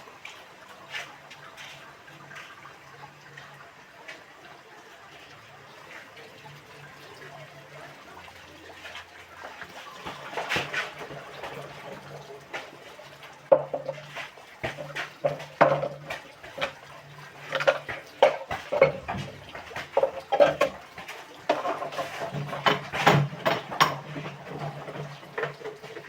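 Water splashing with clattering knocks, which grow busier from about ten seconds in.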